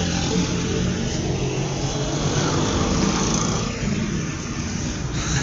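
Road traffic outside: a vehicle engine running with steady road noise, easing off slightly near the end.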